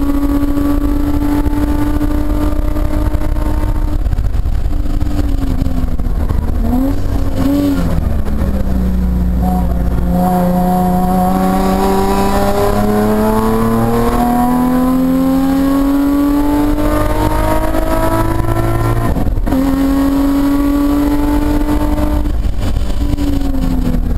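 Nissan 350Z race car's engine heard from inside the cabin at speed on track. The engine note holds high, then falls under braking with two quick throttle-blip downshifts. It climbs in revs under hard acceleration, breaks for a quick upshift about 19 seconds in, and drops again as the driver lifts near the end.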